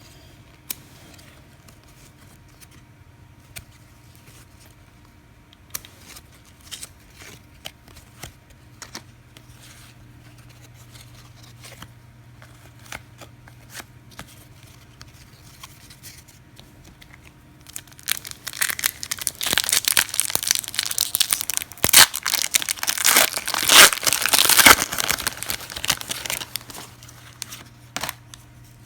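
Light clicks of cards being handled, then, about two-thirds of the way through, a trading card pack wrapper torn open and crinkled loudly for several seconds.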